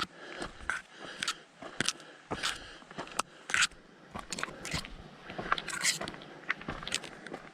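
Hiker's footsteps crunching on a dry trail at a walking pace, about two steps a second.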